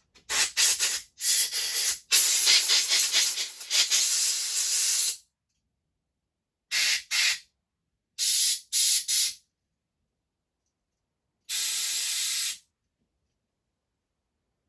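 Compressed-air blow gun hissing in a series of short blasts, about seven, the longest lasting some three seconds near the start, with a final second-long blast near the end.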